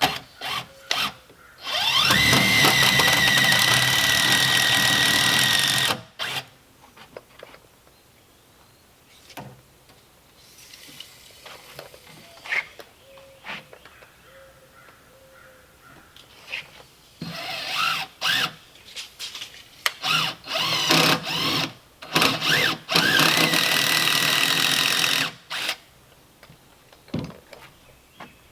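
Power drill run in several bursts, its motor spinning up to a steady whine each time, with short knocks in between.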